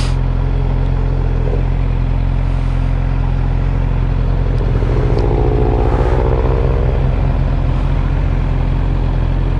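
Suzuki GSX-R600's inline-four engine running steadily at idle, with another vehicle going by about five to six seconds in.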